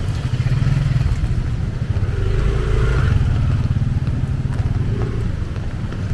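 A motor vehicle engine, likely a motorcycle, running close by in the flooded street: a steady, strong low rumble with a brief higher tone about two to three seconds in.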